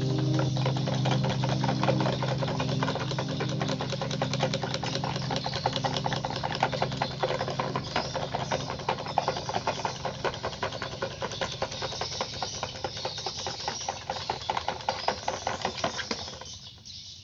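Electric fan running with a broken blade, spinning unevenly: a rapid clattering rattle over a steady low motor hum. It slowly gets quieter and stops near the end.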